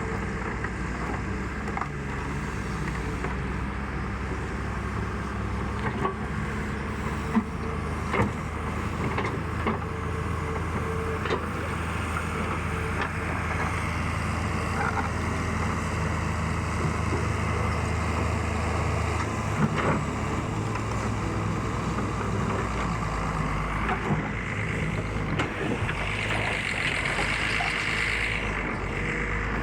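Excavator's diesel engine running steadily, its low note shifting about two-thirds of the way through, with scattered knocks and clanks from the machine at work. A louder hissing whine swells near the end.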